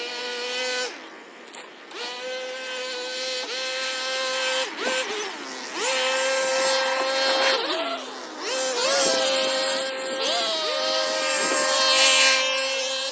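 Small gasoline engine of lawn equipment running at high speed, its pitch dipping briefly and recovering several times as it comes under load.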